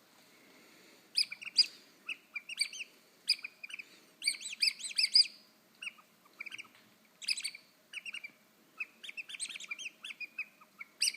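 Bird chirping: a quick, irregular run of short rising-and-falling notes that starts about a second in and goes on with brief pauses.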